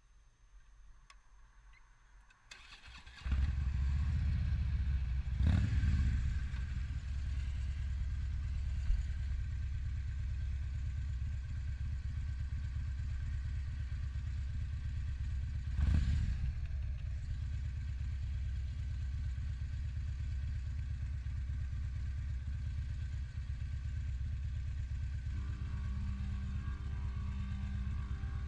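Harley-Davidson touring motorcycle's V-twin engine starting about three seconds in, revved briefly twice, then idling steadily. Music starts near the end.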